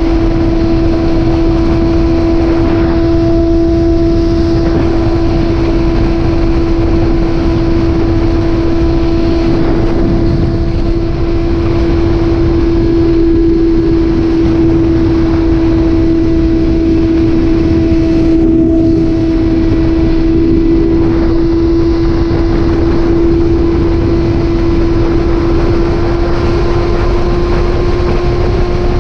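Motorcycle engine at a steady cruising speed, a single unchanging drone, over heavy low rumbling wind and road noise.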